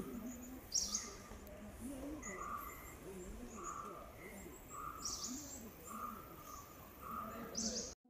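Birds calling: a run of short repeated notes, about one or two a second, with a few brief higher, scratchier sounds, the loudest just under a second in.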